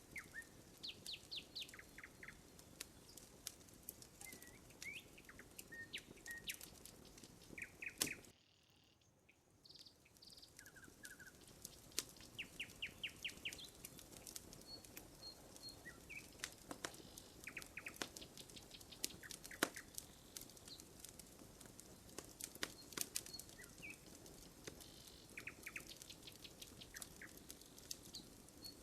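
Wood campfire crackling with many short sharp pops, while small birds chirp in quick series of short high notes. All sound cuts out for about a second and a half roughly a third of the way through.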